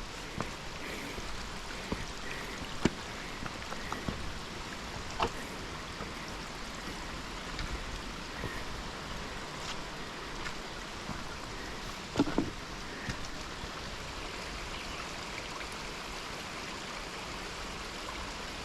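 A mountain stream running steadily over rocks, with a few scattered knocks and clicks on top, the most prominent about twelve seconds in.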